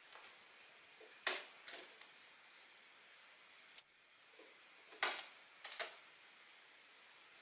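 Orange-headed thrush calling. A thin, high, steady whistle lasts nearly two seconds, with a couple of short sharp notes over it. Then comes one loud, very short high 'cis' note, followed by a few brief clipped 'cip' calls.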